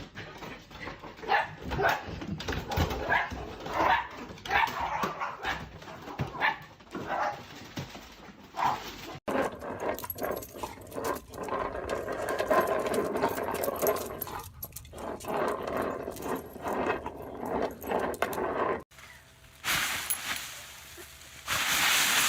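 A dog whining and barking in many short calls, broken by cuts between clips. A steady hiss fills the last few seconds.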